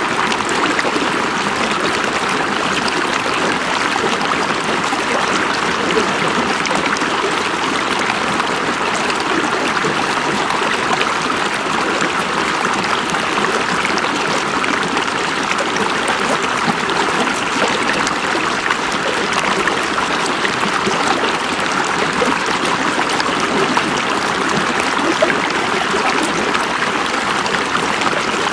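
River water flowing over rocks, a steady rushing and babbling with small splashes.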